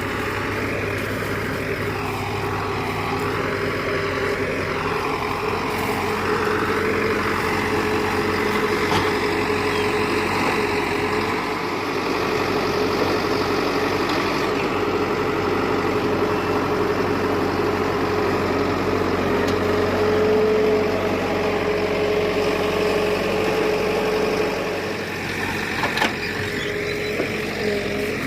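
Tractor diesel engine running at a steady speed, easing off briefly near the end.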